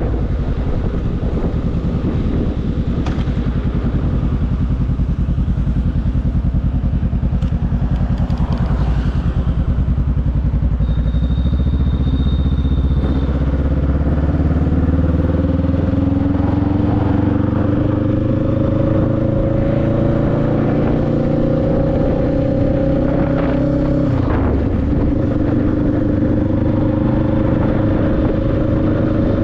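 Motorcycle engine running under way. About halfway through, its pitch climbs steadily for some ten seconds as the bike accelerates, then drops suddenly at a gear change and starts climbing again.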